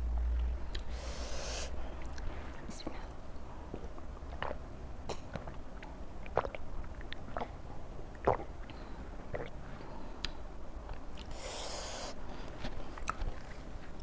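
Close-miked chewing and crunching of raw vegetables, with scattered sharp mouth clicks and two short breathy hisses.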